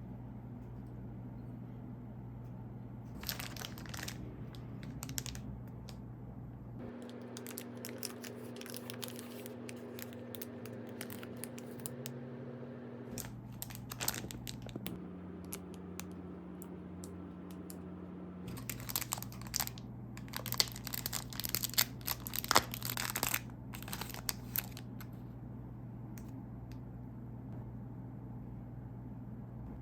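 Plastic candy wrapper crinkling and being torn open, in irregular bursts of rustling and crackle that are loudest about two-thirds of the way in, over a steady low hum.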